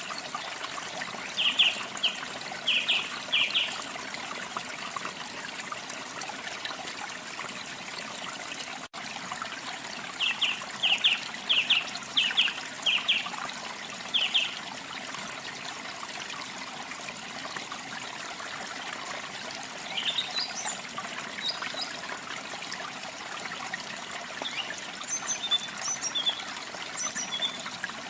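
Steady trickling water with small birds calling over it: two bouts of quick, repeated chirps, then thinner, higher chirps later on. Near the middle the sound cuts out for an instant.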